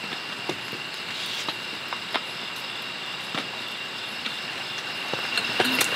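Rain pattering on a tent shelter, a steady hiss with many scattered drops ticking on the fabric, growing a little heavier near the end. A thin steady high tone sits underneath.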